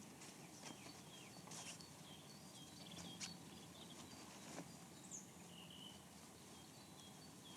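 Faint birdsong: scattered short chirps and whistles from small birds, with a few soft ticks or rustles in between.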